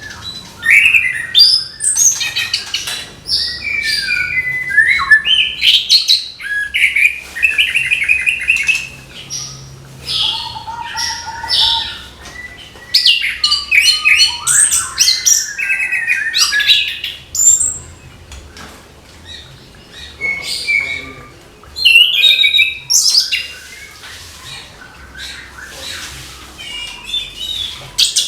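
Orange-headed thrush singing a rapid, varied song of whistled and chattering phrases in repeated bursts, with brief pauses between them.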